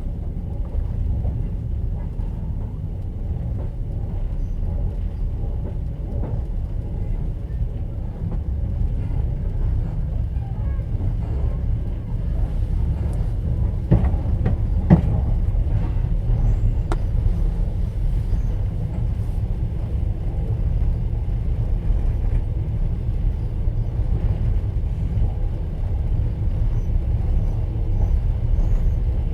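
Passenger train carriage in motion, heard from inside an open-plan sleeper car: a steady low rumble of the running gear and wheels on the rails, with a few sharp knocks around the middle.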